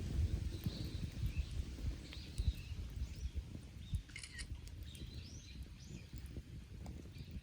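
Small birds chirping and calling on and off over a steady low rumble, with a few sharp clicks.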